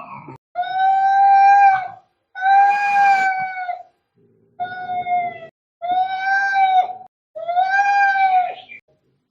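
Angry cat yowling, the caterwaul of a cat fight: five drawn-out yowls of a second or so each, one after another with short gaps, each held at a steady pitch.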